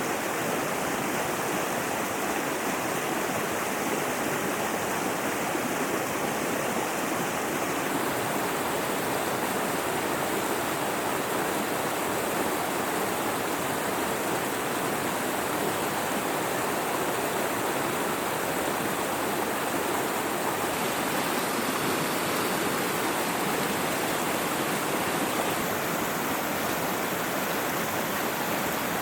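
Mountain river rushing steadily.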